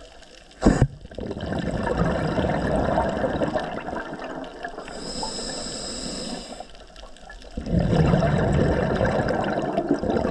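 Scuba diver breathing through a regulator underwater: exhaled bubbles rush out in two long bursts, with one high inhalation hiss between them. A sharp knock comes about a second in.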